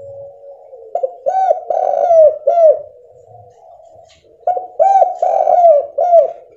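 Spotted dove cooing: two phrases of about five short, downward-bending coos each, the first about a second in and the second about four and a half seconds in.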